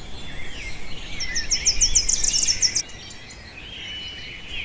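Birds singing: a fast run of high chirps, about seven a second, starting about a second in, over lower warbling whistles, with one held whistle near the end.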